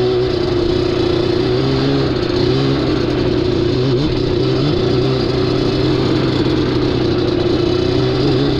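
Yamaha Banshee ATV's twin-cylinder two-stroke engine running under way at a fairly steady throttle, its pitch wavering slightly up and down.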